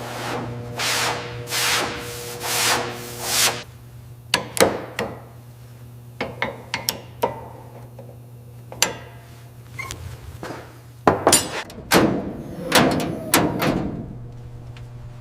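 Hand work on hard material: a few long scraping strokes, then scattered knocks and taps, and a burst of loud clattering knocks near the end. A steady low hum runs underneath.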